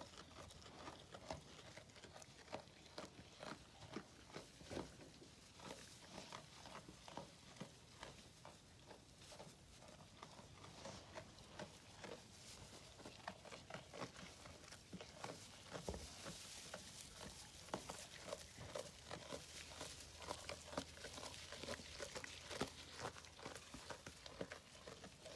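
Llamas munching hay: faint, irregular crunching and rustling that goes on and on.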